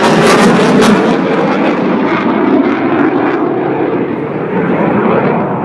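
A loud airplane flying past in a display, a dense engine noise with crackle at first that grows duller as the high end fades away.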